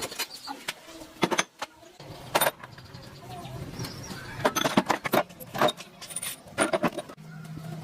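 Irregular metallic clinks and knocks of tools and parts being handled, some ringing briefly. A low steady hum joins about two seconds in.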